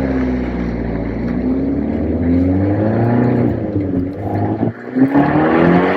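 Abarth Punto's turbocharged four-cylinder engine running through an aftermarket PowerMotive exhaust while driving, the note rising and falling with the revs. About three-quarters of the way through it drops away sharply for a moment, then climbs again.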